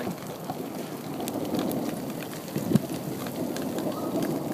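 Light, slushy hail falling and hitting surfaces: a steady hiss of precipitation with many small scattered ticks, and one sharper knock a little past halfway.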